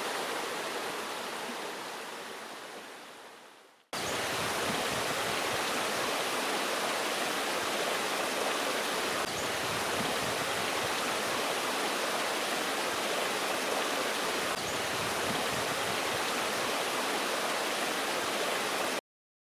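Stream water rushing steadily. It fades out over the first few seconds, cuts back in suddenly at about four seconds, and stops abruptly just before the end.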